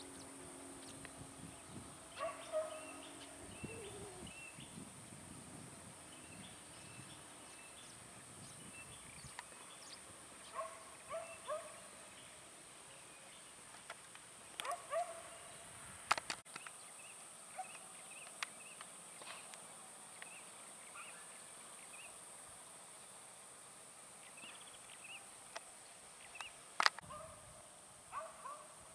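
Birds calling near a lake: short calls that come now and then, often in pairs, with smaller high chirps between them, over a steady high hiss. There is low wind rumble a few seconds in, and a couple of sharp clicks.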